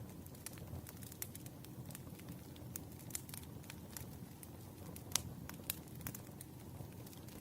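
Campfire crackling: a steady low rumble of flames with frequent irregular sharp pops and snaps.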